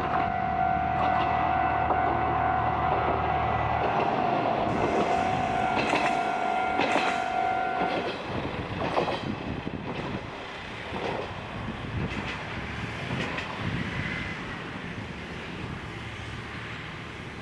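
Isumi Railway diesel railcar passing. A steady high tone and a low engine hum give way about eight seconds in to wheels knocking over rail joints as the sound fades away.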